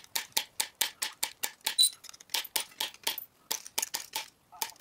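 Metal snips cutting copper sheet, a rapid run of sharp clicks at about four to five a second.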